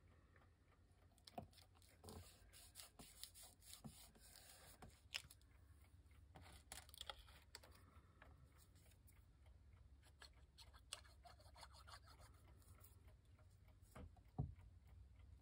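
Near silence with faint, scattered taps and rustles of paper and craft tools being handled on a work surface.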